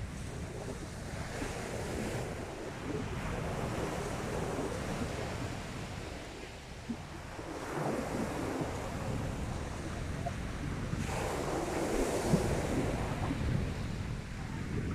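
Sea waves breaking and washing onto the beach, with wind buffeting the microphone. The surf swells up about halfway through and again, more strongly, near the end.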